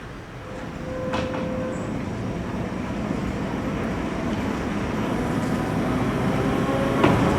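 Historic Trieste-Opicina tram approaching on its track, its rumble growing steadily louder, with a sharp click about a second in and another near the end.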